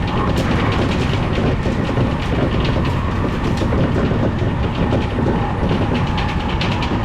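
Odakyu Enoshima Line electric train running along the track: a steady rumble with a constant run of sharp clicks as the wheels pass over rail joints.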